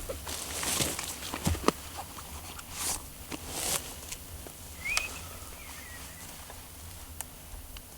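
Footsteps and rustling in dry grass and brush with scattered snaps, fading after about four seconds. A small bird gives a short rising chirp about five seconds in and a fainter falling call just after.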